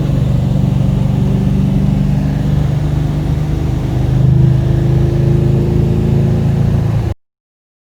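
Freshly rebuilt Ford Coyote 5.0 DOHC V8 from a 2012 Mustang GT, running steadily at idle and swelling briefly about four seconds in, before the sound cuts off abruptly.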